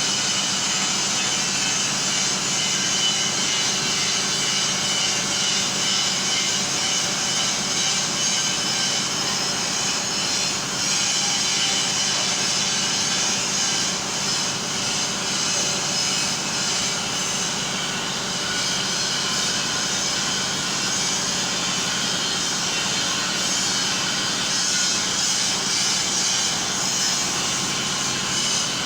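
A Liebherr mobile crane's engine running with a steady drone and hiss, holding the same level throughout.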